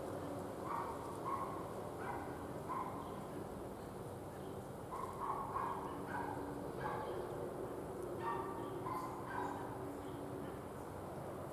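Short animal calls, repeated in loose groups of two or three, over a steady low hum.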